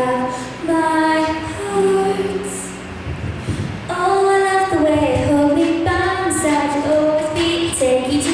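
A solo female singer performing a song with instrumental backing, moving between long held notes.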